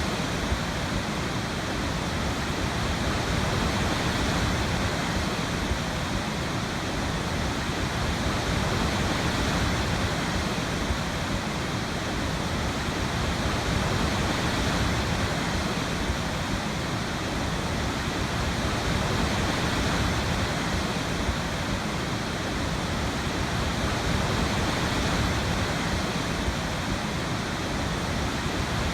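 Waterfall: water falling and splashing in a steady, even rush of white noise with no change in it.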